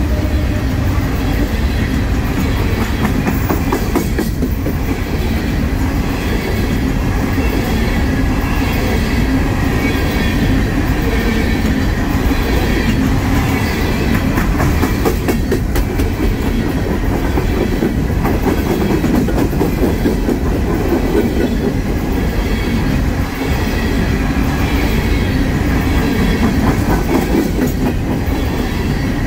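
Coal train's hopper cars rolling past, steel wheels running over the rail joints in a steady clickety-clack.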